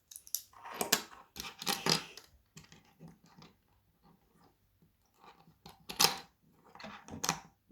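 Lego plastic bricks being handled and pressed together: bursts of small plastic clicking and rattling, with the loudest snap about six seconds in.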